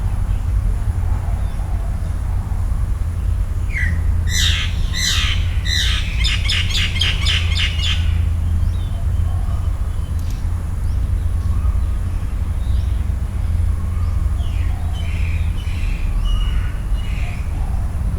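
Wild birds calling: a few harsh squawks about four seconds in, then a quick run of short repeated notes, with fainter calls later on, all over a steady low rumble.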